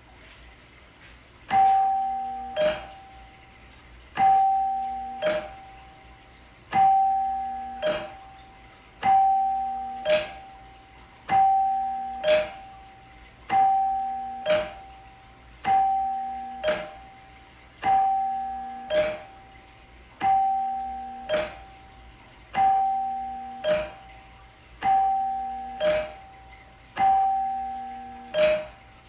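Two-tone chime doorbell ringing ding-dong over and over: a higher struck note, then a lower one about a second later, each ringing out. The pair repeats about every two and a quarter seconds, a dozen times.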